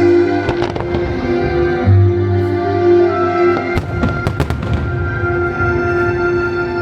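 Fireworks going off over music: a few bangs about half a second in, then a quick cluster of sharp cracks around four seconds in.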